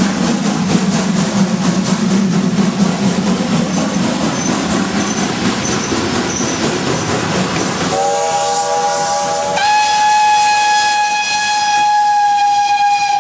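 Steam locomotive running with a loud rush of steam, then its steam whistle sounding about eight seconds in: a long, steady, chord-like blast whose pitch shifts once after a second and a half and holds for several seconds more.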